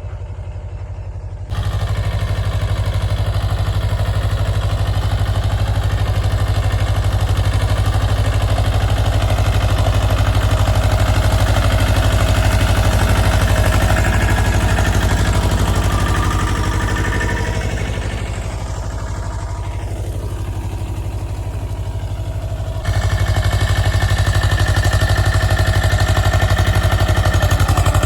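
Mahindra Jivo 305 DI tractor's diesel engine running steadily with some mechanical clatter. The level jumps up abruptly about a second and a half in and again near the end, and eases a little for a few seconds before that second jump.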